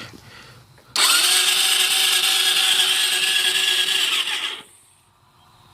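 Suzuki LTZ 400 ATV's electric starter whirring steadily for about three and a half seconds, then stopping, without the engine catching. The owner suspects a failing starter clutch, or else a weak battery.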